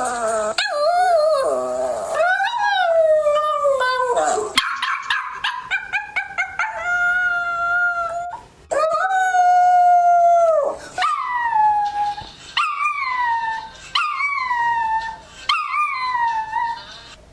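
Dog howling: a series of long pitched howls, some sliding down in pitch and one held steady for about two seconds, with shorter yelps in between.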